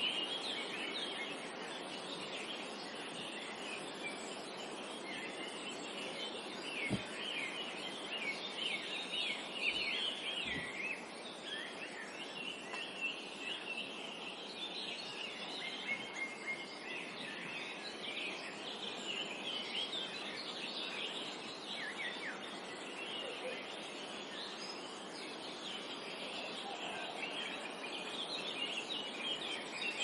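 Many small birds chirping and singing at once in a continuous, overlapping forest chorus, over a steady soft background hiss.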